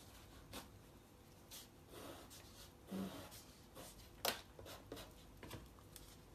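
Pencil drawing lines on paper: a series of short, irregular scratchy strokes, with the sharpest one a little past the middle.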